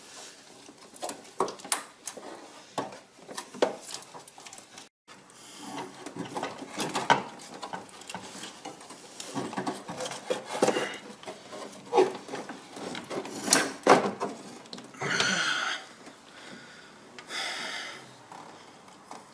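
Irregular clicks, knocks and clunks of a car alternator and its parts being handled and worked free, with two longer rubbing scrapes near the end.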